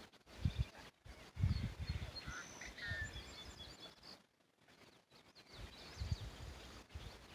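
Small birds giving short, high chirps and calls, clustered in the first half, over intermittent low rumbling.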